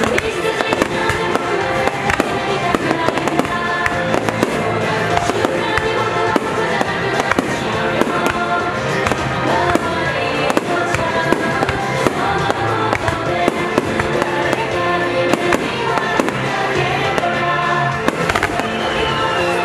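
A fireworks display firing and bursting in quick succession: many sharp bangs and crackles, over continuous music.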